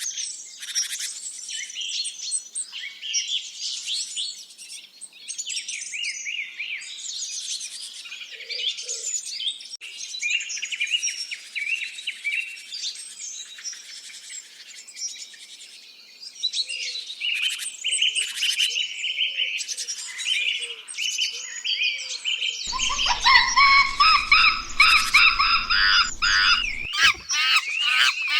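Many small birds chirping and calling at once, a dense overlapping chorus of quick high notes. About 23 seconds in it changes to louder, lower-pitched calls over a faint low rumble.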